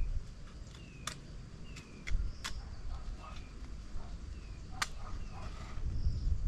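A bird repeating a short, falling whistle about once a second, over a few sharp clicks and a low rumble.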